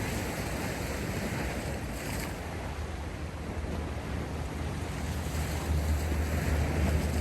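Sea waves washing in steadily, with wind buffeting the microphone. A deep low rumble grows louder near the end.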